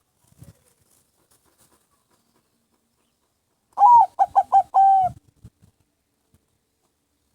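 Zebra dove (perkutut) cooing once, about four seconds in: a single phrase of just over a second, an opening note followed by three quick short notes and a longer held note.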